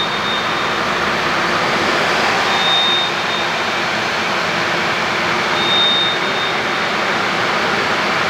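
MAN TGS 35.400 truck's six-cylinder diesel engine running steadily at idle just after starting. A high beep repeats about every three seconds, each a short tone followed by a brief second blip.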